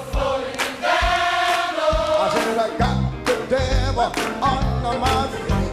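Gospel song: voices singing long held notes with vibrato over a steady drum beat and bass.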